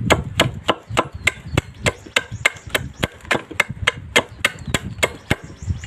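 Knife chopping the plastic body of a used lighter into small pieces. The chops are sharp and evenly paced, about three a second.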